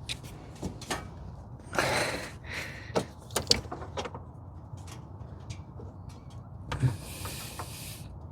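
Hands working spark plug wires onto a V8's distributor cap: scattered clicks and knocks with short bursts of rustling, as loose wires are reseated to cure misfiring cylinders.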